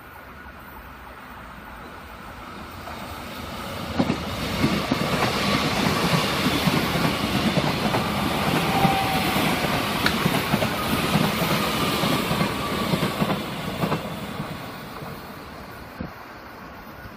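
Seoul Metro Line 1 1000-series electric train with retrofitted rheostatic control passing close by. The rumble of its wheels on the rails swells about four seconds in, holds for around ten seconds, then fades as it goes away, with several sharp clacks over rail joints.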